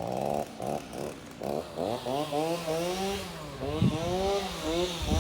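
A small engine revved up and down repeatedly, its pitch rising and falling in quick swells, with rougher sputtering near the start.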